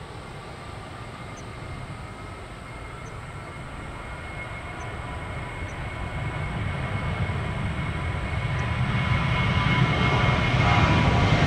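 Jet airliner engines growing steadily louder as the aircraft draws nearer: a deep rumble under a steady high whine.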